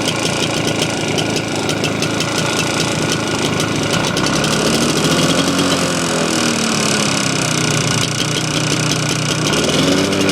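Lawn tractor's small gasoline engine running unevenly on choke. It speeds up about halfway through, drops back, then picks up again near the end to a steadier, faster run as it clears.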